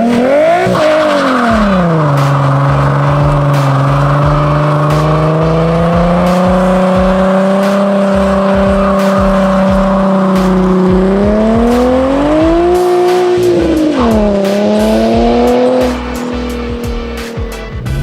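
Nissan 350Z's 3.5-litre V6 through a custom dual valved X-pipe exhaust, revved sharply and held at high revs while the tyres squeal in a burnout, used to test a freshly rebuilt gearbox. The revs rise and fall again about two-thirds through, dip sharply, and the sound drops near the end.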